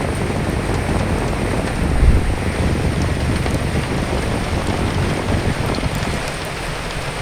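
Steady rain falling, with wind. About two seconds in there is a brief low swell.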